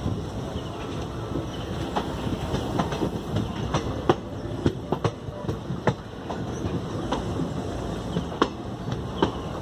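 Moving electric passenger train heard from on board, beside an open coach window or door: a steady rumble of the running coaches, with irregular sharp clicks and knocks from the wheels on the track, a few standing out a little after 4 s, near 6 s and near 8.5 s.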